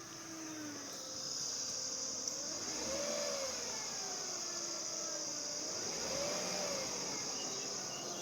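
2005 Acura RL's 3.5-litre V6 running with a steady high-pitched whine from the accessory drive. The engine is revved twice, and its pitch rises and falls each time. The owner suspects a failing alternator bearing or a drive-belt pulley, or the water pump.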